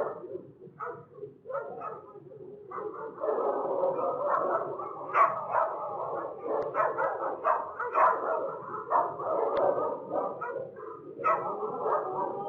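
Dog whimpering and yelping: a few short, separate cries at first, then from about three seconds in a dense, unbroken run of overlapping whines and yelps.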